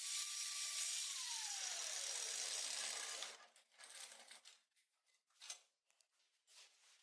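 A workshop tool working on metal runs with a steady hiss and a falling tone, then stops about three seconds in. Several short separate bursts follow.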